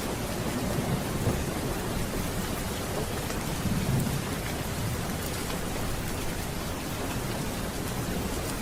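Steady heavy rain with a low rolling rumble of thunder underneath, swelling briefly about four seconds in.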